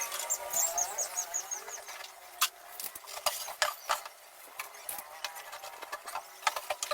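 Scattered light clicks and knocks of small hard objects being handled, with a quick run of high chirps about half a second in.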